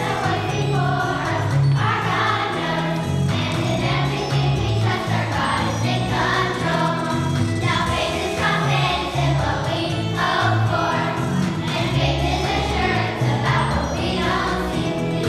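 A group of voices singing a song together over instrumental accompaniment with a moving bass line.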